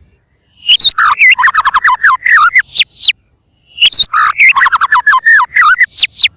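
White-rumped shama singing: two rapid phrases of loud, quickly varied whistled notes, each about two and a half seconds long, with a short pause between them.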